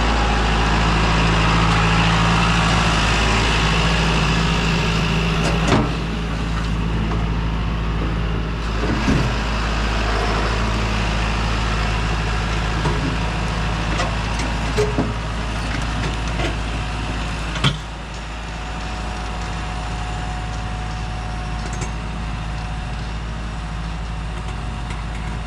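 Tractor-backhoe engine running steadily, with a few sharp knocks and clanks through the run.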